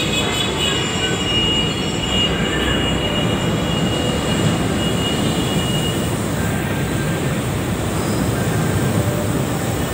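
LRT-1 first-generation light rail train running in along the station platform at close range, with a steady rumble of wheels on rail. A high squeal sounds over it and fades out about three seconds in.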